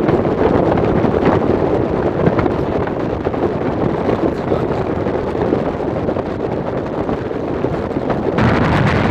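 Wind buffeting the microphone: a loud, steady rushing rumble that gets slightly stronger near the end.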